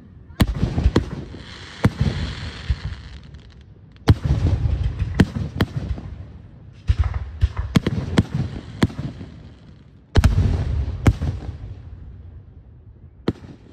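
Aerial fireworks shells launching and bursting: clusters of sharp bangs about every three seconds, each cluster trailed by a low rumble, with a last single bang near the end.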